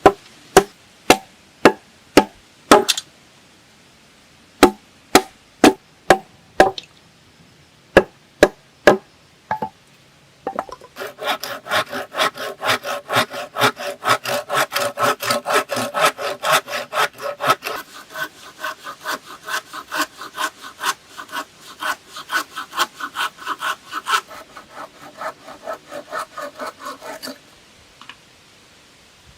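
Wood being worked by hand: about ten seconds of sharp knocks in quick runs of a few blows, then fast back-and-forth sawing through wood for about seventeen seconds. The sawing stops abruptly near the end.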